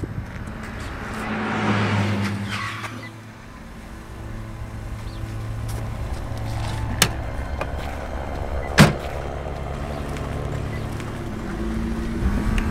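Car engine running steadily, with a brief swell of noise in the first few seconds and two sharp knocks, the louder one about nine seconds in.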